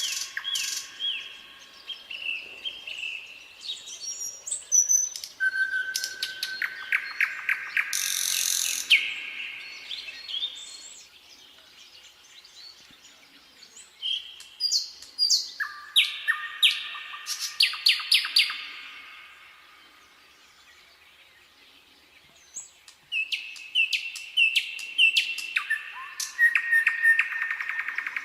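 Nightingale singing: four phrases of rapid repeated notes, whistles and sweeping trills, each a few seconds long, with short pauses between them.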